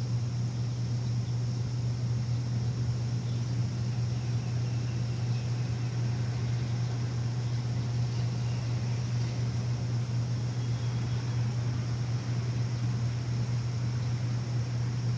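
A machine running with a steady low hum over an even hiss, unchanging throughout.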